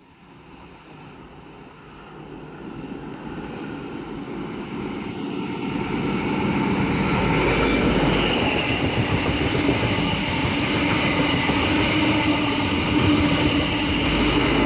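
NSW TrainLink XPT express passing through the station, led by its diesel power car. The sound builds steadily over the first several seconds as the train approaches, then stays loud and even, with a steady engine tone over the rush and rattle of wheels as the carriages go by.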